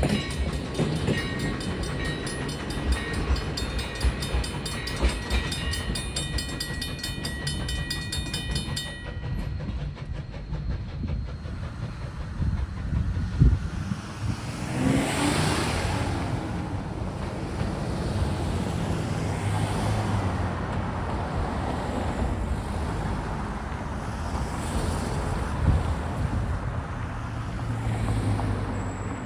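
Railroad crossing bell ringing with steady repeated strikes, stopping about nine seconds in. A train rumbles over the crossing with wheels clattering on the rails, and its noise swells around the middle.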